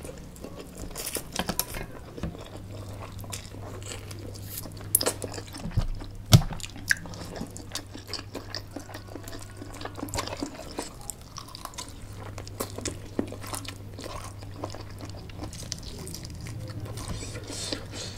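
Close-up mukbang eating sounds: two people biting and chewing fried chicken and spicy noodles, with wet mouth noises and crunches. A few sharper clicks stand out, the loudest about six seconds in, over a low steady hum.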